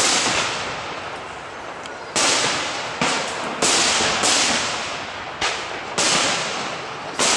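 Aerial firework shells bursting one after another: about seven sharp bangs roughly a second apart, each trailing off in echo before the next.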